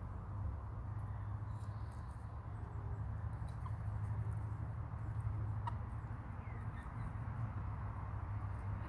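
Hens dust bathing: faint scratches, scrapes and ticks of birds working in dry dirt, over a steady low rumble.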